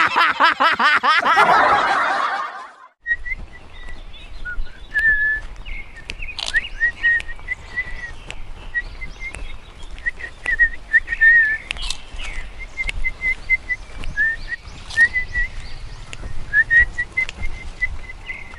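A loud synthetic logo sound effect for the first three seconds, cutting off suddenly. Then birds chirping throughout, many short high calls, some in quick runs.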